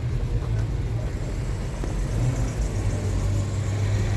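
A motor vehicle running with a steady low engine and road drone, a little stronger from about three seconds in.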